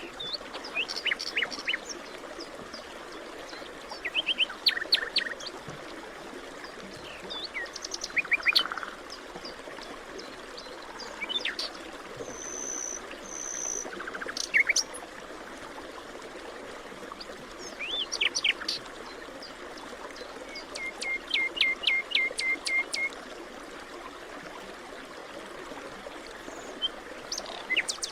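Forest ambience: several songbirds chirping in short, scattered phrases, with a rapid run of about a dozen evenly repeated notes about three-quarters of the way through, over a steady background hiss.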